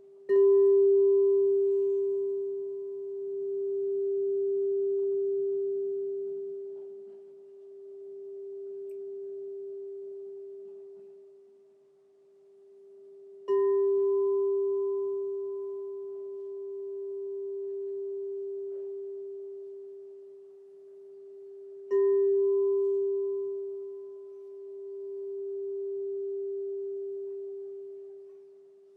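Crystal singing bowl struck three times, near the start, about halfway and about two-thirds through. Each strike sets off one pure, low, long-sustained tone with a faint higher overtone, its loudness slowly pulsing up and down as it rings.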